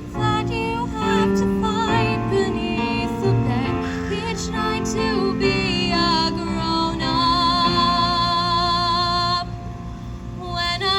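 A song with instrumental backing and a sung voice, including a long held note with vibrato about seven seconds in, before the music briefly drops away near the end.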